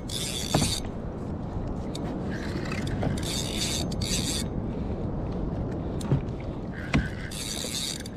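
Fishing reel cranked in short bursts of about a second, with pauses between, as the angler pumps and reels a hard-fighting fish up from deep water. A steady low wash of water and wind runs underneath, with a few sharp clicks.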